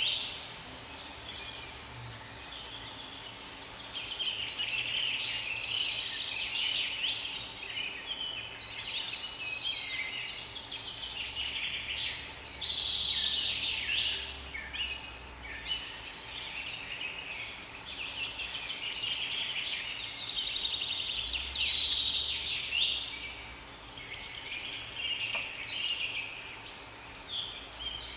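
Morning chorus of songbirds, several birds chirping and singing over one another in quick, overlapping phrases without a break.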